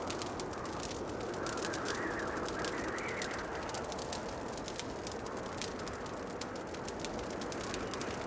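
Wood fire crackling with many small irregular pops and snaps, over a steady rushing background that slowly swells and fades.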